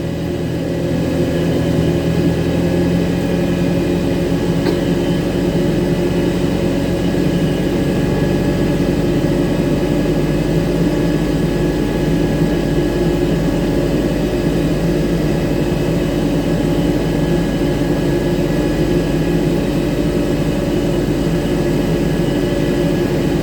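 Airbus A321-231 airliner running steadily during pushback: a loud low drone with steady tones in it and a fainter high whine above.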